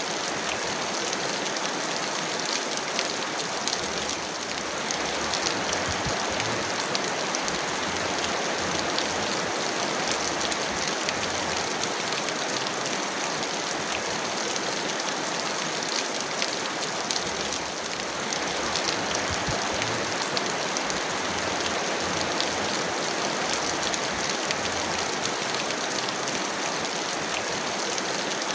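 Heavy rain falling steadily, a dense even hiss of water peppered with the fine ticks of individual drops striking a surface.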